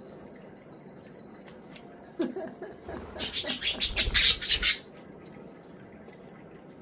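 Budgie chirping with a thin, high note, then a burst of rapid, loud fluttering and splashing for about two seconds, as a budgie beats its wings in bath water.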